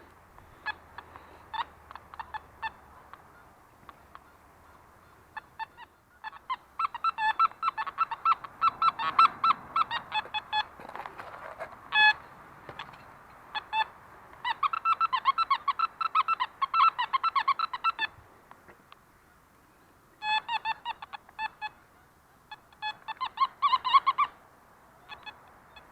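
Metal detector sounding a rapid chatter of pitched beeps in several bursts as the coil is swept over the ground, with short clicks between the bursts.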